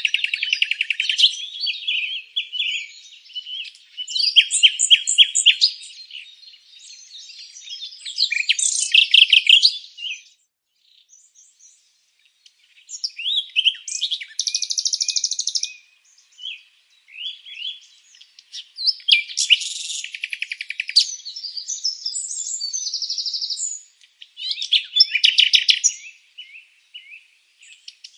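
Songbirds chirping and trilling in bursts, high-pitched, with short gaps between phrases, including a few quick rattling trills.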